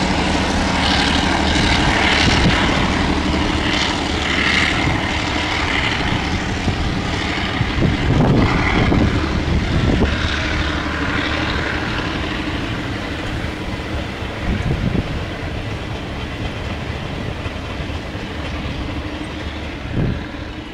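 Freight train rolling past: wagon wheels clattering over rail joints with occasional short wheel squeals, and a few louder knocks. Under this runs the low drone of the EMD G12 diesel-electric locomotive's engine, which fades as the train moves away.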